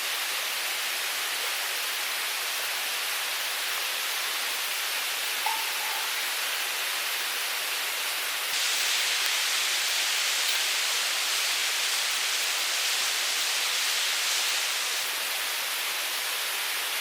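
Mountain stream running: a steady rushing hiss of water that turns louder and brighter for about six seconds in the middle.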